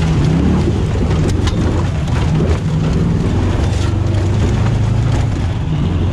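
Holden L77 V8 engine of a modified Toyota FJ40 running steadily under way up a dirt track, heard from inside the cab. Scattered sharp clicks and rattles sound over the engine.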